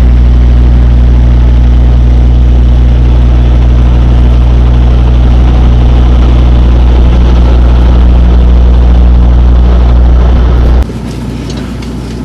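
Semi-truck diesel engine running steadily with a deep drone, then shut off abruptly about eleven seconds in.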